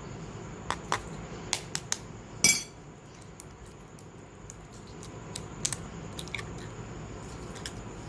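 Scattered clinks and knocks of a utensil against a bowl. The loudest is one sharp knock with a brief ring about two and a half seconds in, then lighter clicks follow at intervals.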